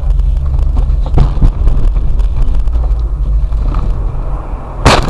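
Steady low rumble of a car's engine and road noise heard from inside the cabin, then near the end a sudden loud bang with a scraping, crunching tail: the impact of a car collision.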